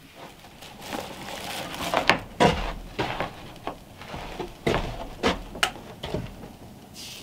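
A series of irregular knocks and clunks, several sharp ones close together, loudest about two seconds in and again near five seconds.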